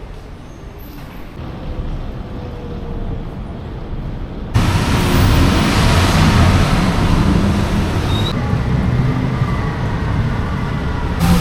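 City street traffic: a steady rumble and hiss of passing vehicles, much louder from about four and a half seconds in, with sudden jumps in level where separate clips are joined.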